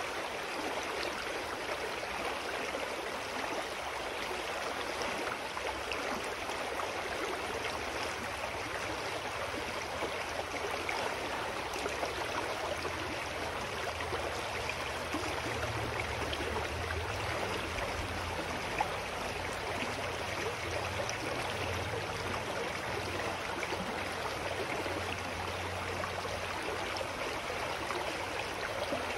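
Mountain stream flowing steadily, an even rush of water. A faint low rumble joins it for a stretch in the middle.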